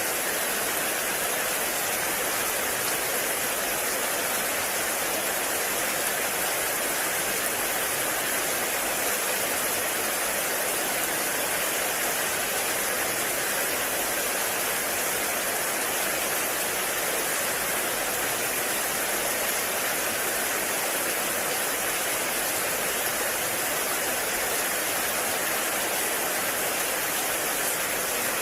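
Heavy rain falling steadily in a forest, a dense, unbroken hiss with no separate drops or thunder standing out.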